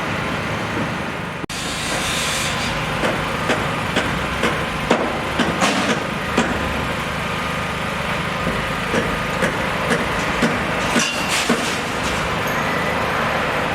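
A steady mechanical rumble with a scattered series of sharp clicks and knocks. It cuts out for an instant about a second and a half in.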